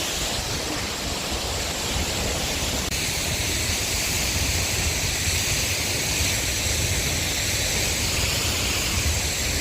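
Seljalandsfoss waterfall, heard close up: a loud, steady rush of falling water with a deep rumble underneath. The sound turns slightly brighter about three seconds in.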